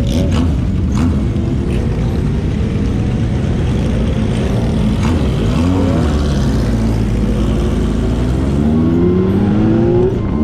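Motorcycle engine and exhaust running under way, its pitch rising and falling briefly about halfway through, then climbing steadily near the end as the bike accelerates.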